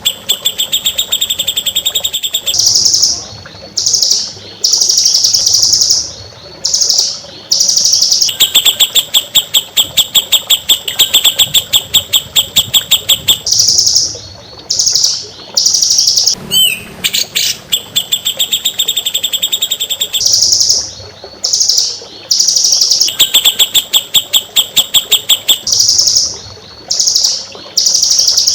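A songbird singing loud, high-pitched phrases: long runs of rapid, evenly repeated notes alternate with short, higher bursts and brief gaps, and the same sequence of phrases comes round again.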